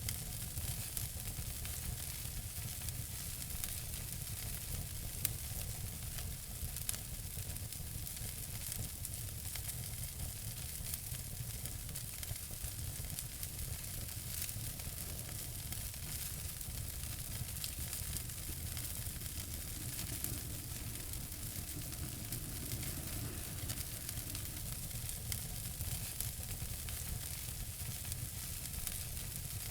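Fire in a fireplace crackling steadily: a constant soft hiss with frequent small sharp pops over a low rumble.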